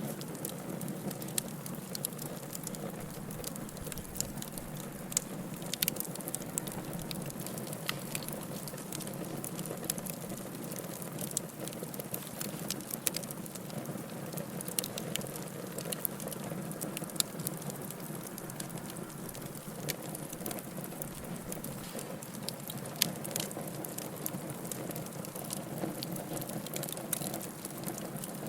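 Wood fire burning in a fireplace: irregular sharp crackles and pops over a steady low rush of flames.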